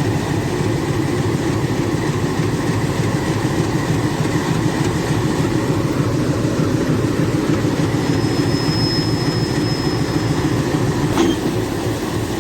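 ALCO WDG3A diesel locomotive idling, a steady low rumble, with a single sharp click near the end.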